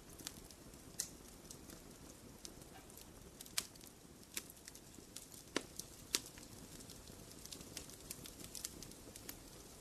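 Wood fire burning in a fireplace, crackling with sharp irregular pops over a low steady hiss.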